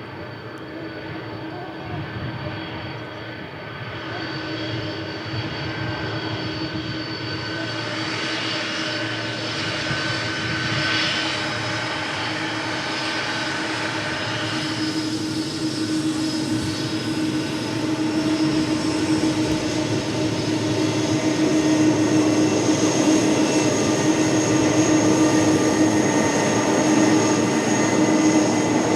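Jet engines of a Boeing 747 Dreamlifter cargo freighter on its landing approach, growing steadily louder as it nears, with a steady whine over the engine noise.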